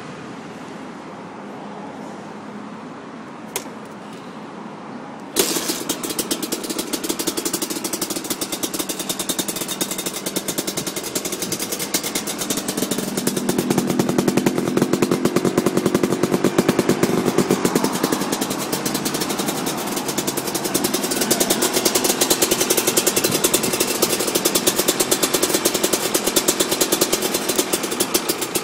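Honda CRM250R two-stroke single-cylinder engine starting from cold. After a few seconds of low background noise and a single click, it catches suddenly about five seconds in and runs with fast, even firing. It grows louder about a third of the way through and keeps running steadily.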